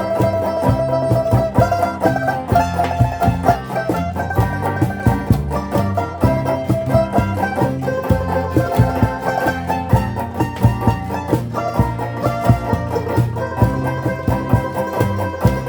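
Rondalla ensemble of plucked-string instruments (bandurrias, octavinas, guitars and bass) playing an instrumental piece: many quick plucked notes carrying the melody over a steady bass line.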